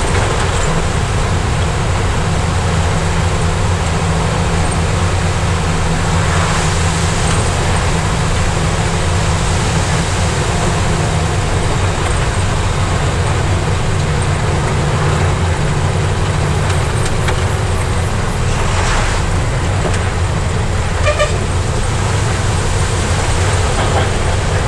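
Heavy truck's diesel engine running steadily under way. About three-quarters of the way through, and again at the end, a horn sounds in short repeated toots.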